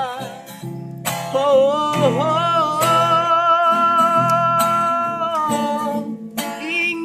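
A street singer holding one long sung note with a slight vibrato for about four seconds, over a plucked acoustic guitar; near the end the voice drops briefly and the guitar carries on.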